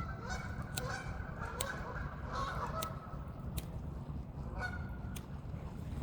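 Geese honking in a flurry of calls for the first couple of seconds, with another honk near the end, over scattered sharp clicks.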